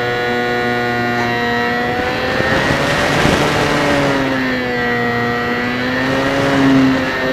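HobbyZone Champ's small electric motor and propeller whining steadily, heard from a camera mounted on the plane. The pitch wavers up and down with throttle and load, and a rush of wind noise swells over it about three seconds in.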